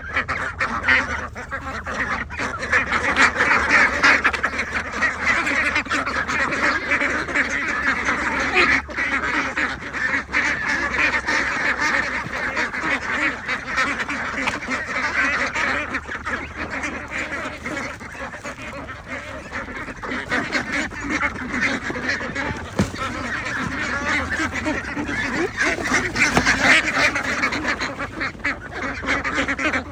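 A flock of ducks quacking and calling continuously, many voices overlapping.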